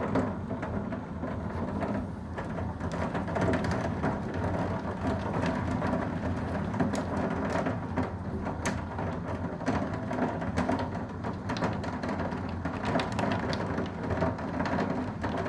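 Thunderstorm downpour: steady rain with a low rumble of wind, and scattered sharp taps of impacts throughout.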